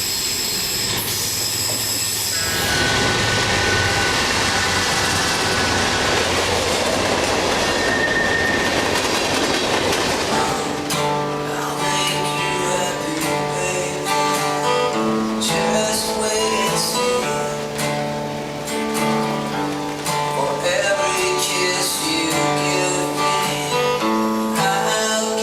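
A train running by, a dense steady rush of noise with thin high wheel squeals over it, for about the first ten seconds. Then an acoustic guitar picks a melody note by note.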